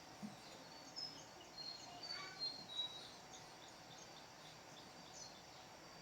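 Faint birds chirping, short high calls clustered in the first half, over a low steady background hiss.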